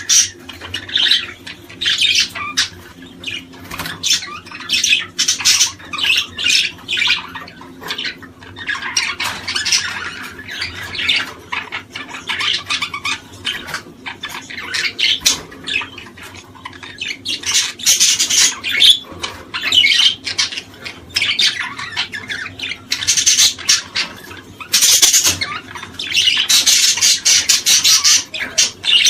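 Many small birds chirping and squawking together in dense, overlapping chatter, busier in some stretches than others, over a faint steady low hum.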